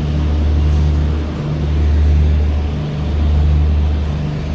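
Low, steady diesel engine drone from the stationary express train, swelling and dipping about every second and a half.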